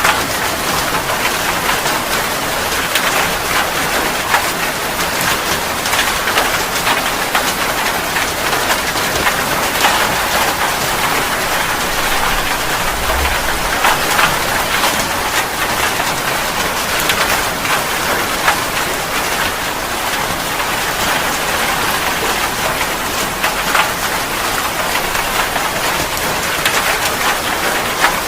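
Steady rain falling, with scattered sharper drop splashes heard over the even hiss.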